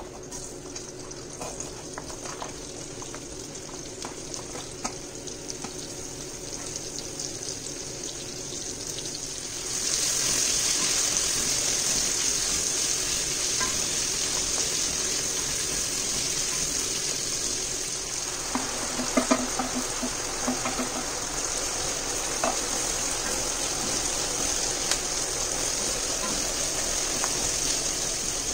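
Onion and celery sizzling as they fry in hot oil in a pot, a steady hiss that gets louder about ten seconds in, with a wooden spoon scraping and knocking against the pot as they are stirred.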